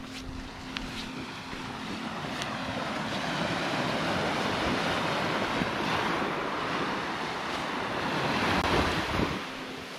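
Sea surf washing onto the beach, with wind on the microphone. The rushing sound swells over several seconds to a peak near the end, then drops off suddenly.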